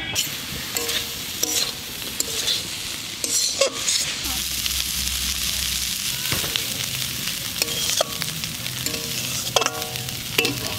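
Wild arum leaves and shrimp sizzling in a metal wok while a metal spatula stirs them, scraping and clinking against the pan in repeated strokes over a steady frying hiss.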